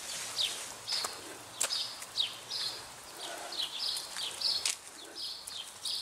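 Small birds chirping over and over in short, high notes, some of them quick downward slurs. A few faint clicks come in between.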